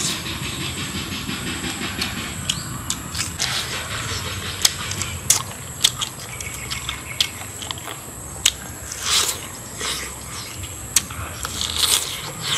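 Close-up eating sounds of grilled pork rib being gnawed off the bone: irregular wet mouth clicks and lip smacks while chewing, over a steady high hiss in the background.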